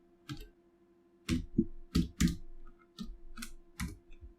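Computer keyboard keystrokes: about ten separate key presses at an uneven pace, over a faint steady electrical hum.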